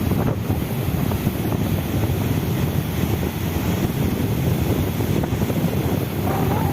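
Steady rush of lake water overflowing and pouring downstream, a dense low rumble mixed with wind buffeting the microphone.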